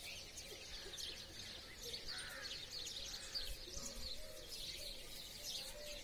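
Morning chorus of many small birds chirping and twittering, a dense overlapping stream of short high chirps.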